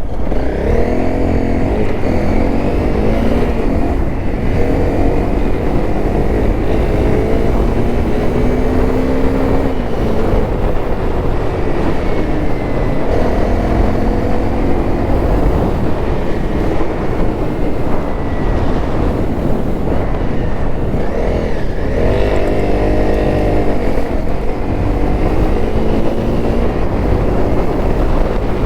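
Honda CRF250L's single-cylinder four-stroke engine running as the bike is ridden, its revs climbing and dropping several times.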